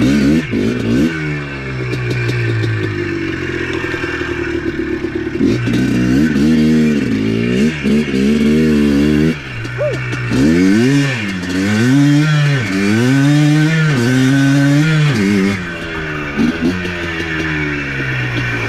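ATV engine running under load, revved up and down repeatedly in quick surges for several seconds before settling back to a steadier pull.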